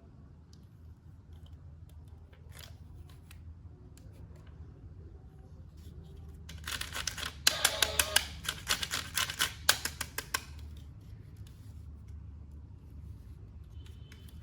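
Hands working an action figure's packaging: a burst of rapid sharp clicks and snips lasting about four seconds, starting around the middle, over a steady low hum.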